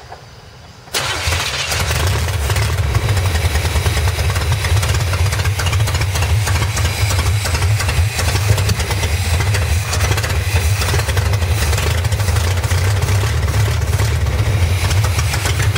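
Carbureted Chevrolet engine, quiet for the first second, then starting suddenly and running at a steady idle. The four-barrel carburetor is flooding, with gas all over it.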